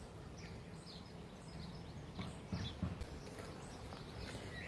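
Faint, scattered short bird chirps over a steady outdoor background, with a couple of soft low thumps a little past the middle and a short whistled bird note near the end.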